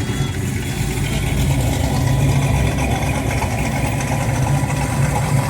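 Classic car engines running at low speed, a steady low engine note that grows a little louder about a second and a half in, with street noise around.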